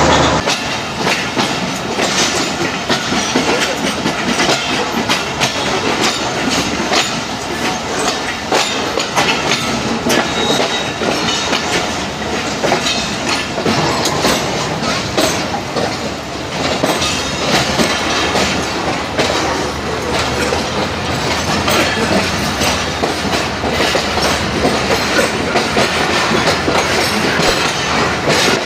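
Tezgam Express passenger train running along the track, heard from aboard, its wheels clattering steadily over the rail joints.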